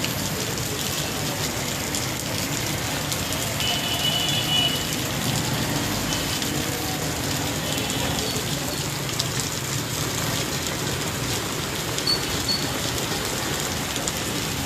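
Steady rain falling on surfaces, an even hiss, with a few faint short high tones about four and eight seconds in.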